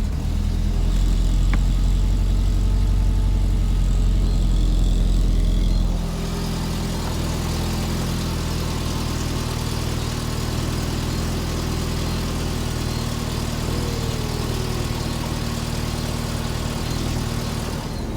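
Volkswagen Mk4 Bora's engine idling steadily. About six seconds in, the sound drops in level and changes character, then the idle carries on evenly.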